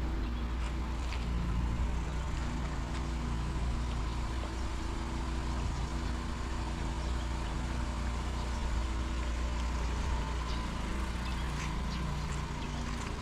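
A motor vehicle's engine running steadily close by, a low even hum that holds one pitch, over the hiss of rain with a few scattered drop ticks.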